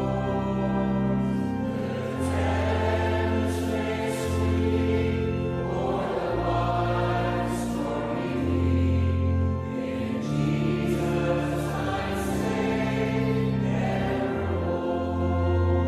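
Choir singing a slow gospel worship song over sustained chords and long held bass notes that change every couple of seconds.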